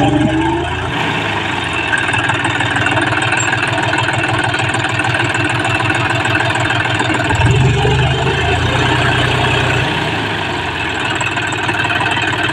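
Tractor diesel engine running steadily, its deep low note swelling twice: briefly at the start, and again for a couple of seconds about seven seconds in, as it is revved or put under load.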